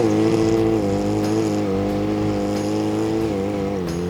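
Kawasaki ZX-6R sport bike's inline-four engine running at a steady pitch, dipping slightly about a second in, held on a constant throttle while the bike is balanced in a wheelie.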